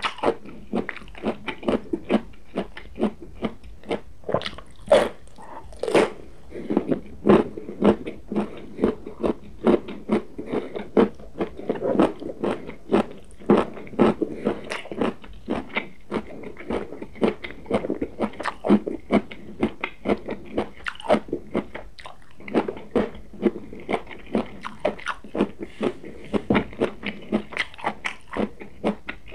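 Close-miked crunching and chewing of raw cauliflower and Romanesco florets, crisp bites and chews coming two or three a second without a break.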